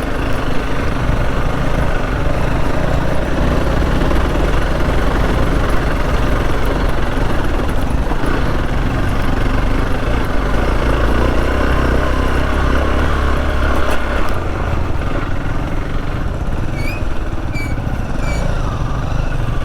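Motorcycle engine running with wind noise while riding; about two-thirds of the way through the engine and wind ease off and quieten. A few short, high chirps come near the end.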